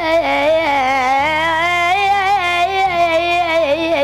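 A boy singing an Arabic song, holding one long wavering melismatic line with many small bends in pitch. Low sustained accompaniment notes sit beneath the voice and change about a second in and again near three seconds.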